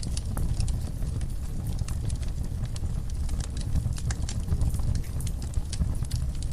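Wood fire burning in a fireplace, crackling: irregular sharp pops and snaps over a low, steady rumble of the flames.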